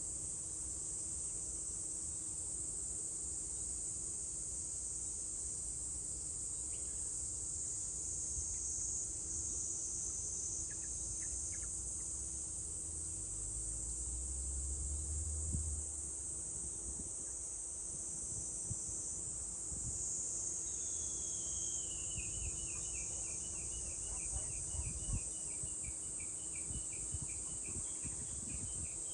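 Cicadas shrilling in a steady, high-pitched summer chorus. About two-thirds of the way through, a bird starts a rapid run of short chirps that drop a little in pitch at first and then repeat evenly.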